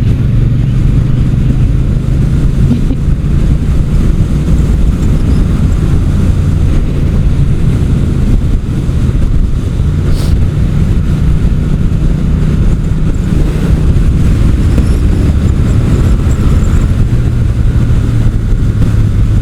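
Motorcycle engine running steadily on the move, with continuous wind and road noise.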